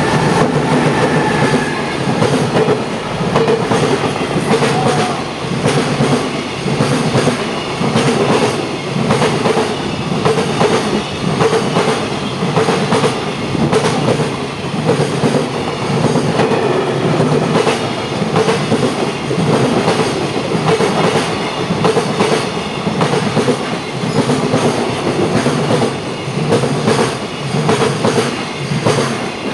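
Freight train's wagons running through a station at speed, their wheels clattering over the rail joints in a rhythm that repeats every second or two.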